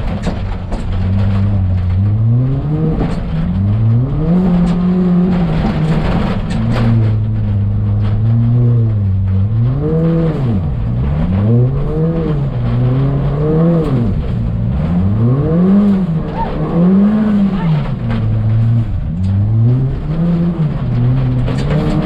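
Ford Fiesta ST rally car's turbocharged four-cylinder engine being driven hard, revving up and dropping back over and over, the pitch swooping up and down every second or so as the driver works the throttle and gears through the course.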